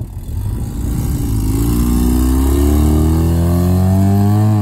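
Car engine, most likely the Mazda RX-7 FC's rotary, accelerating. It starts low, then rises steadily in pitch for about three seconds as it pulls away, and drops right at the end as the throttle is lifted.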